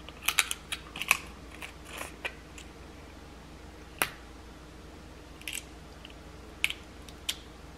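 Close-miked chewing of crab meat, with a quick run of wet mouth clicks in the first couple of seconds. Then come a few single sharp cracks as a crab leg shell is snapped and pulled apart by hand; the loudest is about four seconds in.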